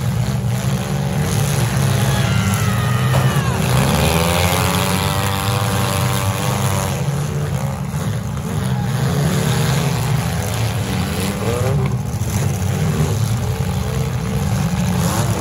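Engines of several compact demolition derby cars running and revving: a loud, steady low rumble with engines rising and falling in pitch, most clearly about three to seven seconds in.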